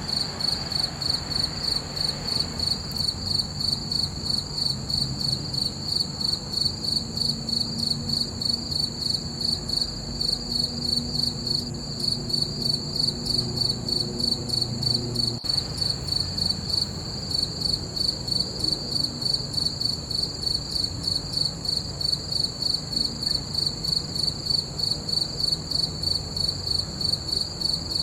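Crickets chirping in a steady, even rhythm of about two to three chirps a second, over a faint low hum.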